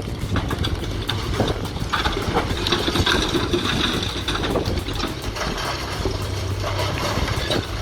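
A heavy machine's engine running steadily, with irregular crunching and cracking of demolition debris.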